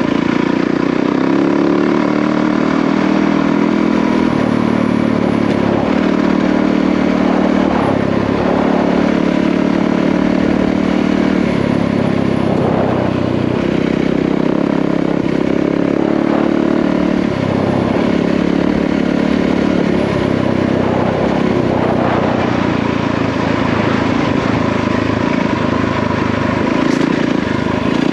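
Yamaha WR450F single-cylinder four-stroke dirt bike engine running under load on a trail ride, its pitch rising and dropping every few seconds as the throttle is worked and gears change.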